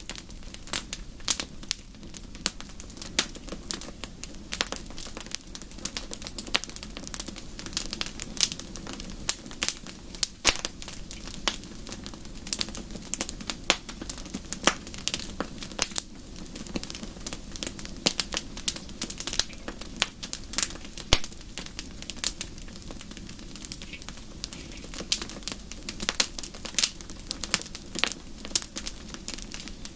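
Fireplace fire crackling, with irregular sharp pops several times a second over a steady low rumble.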